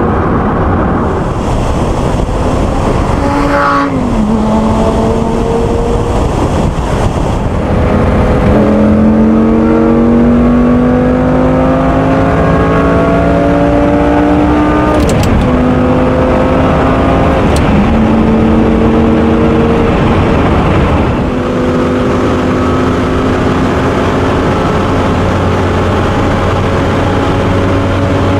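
Lamborghini Gallardo Spyder's V10 engine accelerating through the gears: the pitch climbs steadily, then drops sharply at each upshift, several times over. Near the end it eases off and runs at a steadier pitch.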